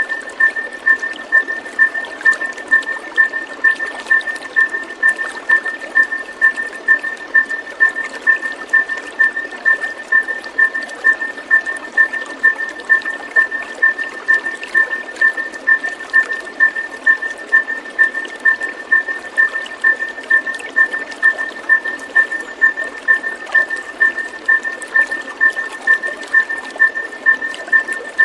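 Running water trickling steadily, with a high-pitched tone pulsing evenly about twice a second over it, a looped nature-sound therapy track.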